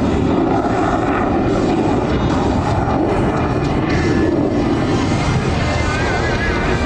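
Loud, steady jet noise from the F-22 Raptor's two turbofan engines as the fighter flies its demonstration overhead.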